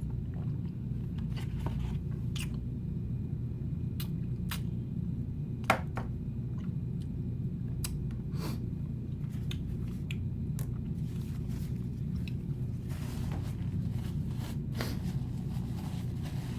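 A person eating Jamaican stew chicken, rice and soup: chewing and squishy mouth sounds with scattered short clicks and taps, one sharp click a bit under six seconds in, over a steady low hum.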